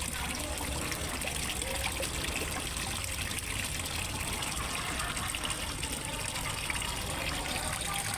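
Water trickling and gushing steadily into a fish pond, the even splashing of a small pond waterfall.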